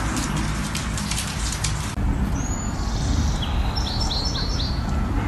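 A rapid crackle of fine clicks for the first two seconds, then small birds chirping outdoors: one falling chirp about two and a half seconds in and a quick run of four short chirps near the end, over a low background rumble.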